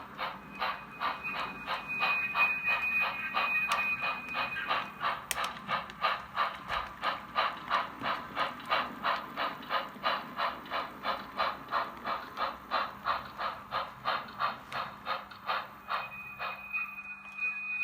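Model steam locomotive's sound decoder chuffing steadily, about three chuffs a second, as the model consolidation runs. A high steady tone sounds over it for a few seconds near the start and again near the end.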